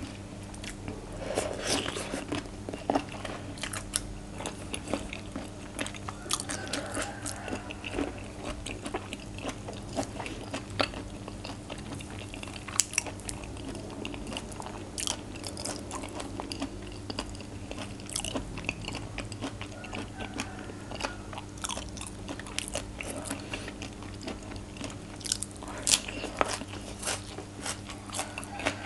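Close-miked eating: a person biting and chewing raw shrimp and fresh vegetables with papaya salad (som tam), with many crisp crunches throughout.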